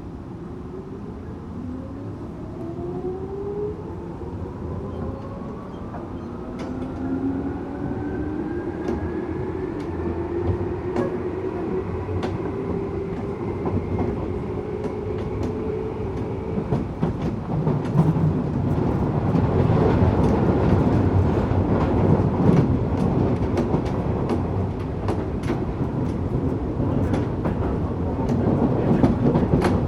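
Tokyu 8500 series electric train with Toyo-built traction motors: the motors whine in several tones rising together in pitch as the train accelerates. About seventeen seconds in, the whine fades and the wheels' running noise takes over, with rapid clacks over the rail joints.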